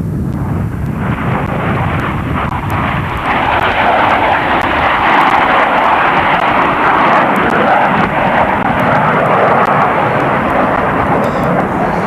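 Aircraft flying over, a loud steady roar that swells over the first three seconds and then holds.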